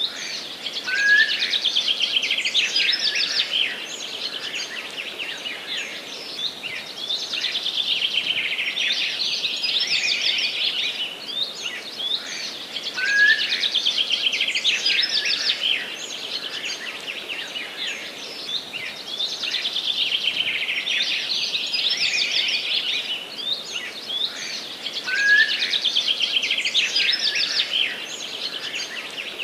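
Forest songbirds singing continuously: dense, fast chirps and trills over a steady background hiss. The same song phrases recur about every twelve seconds.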